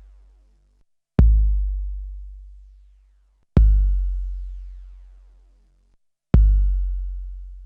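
Long-decay deep bass drum sample played back through a 12-bit SP1200 sampler. Hits come about every two and a half seconds and each booms low and fades over about two seconds. The later hits carry a ringing metallic overtone.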